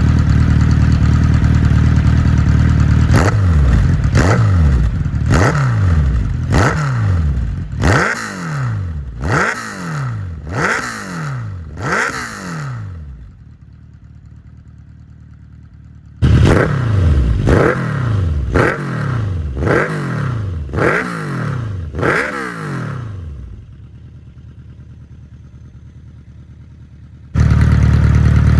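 Kawasaki Z1000 inline-four through an aftermarket LCI round short muffler: idling, then blipped repeatedly, each rev falling back to idle. The engine sound cuts out suddenly twice to a much quieter background and cuts back in at idle.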